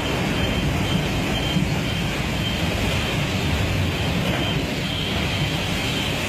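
Steady, loud rushing roar of a violent storm. A faint high beep repeats about twice a second behind it.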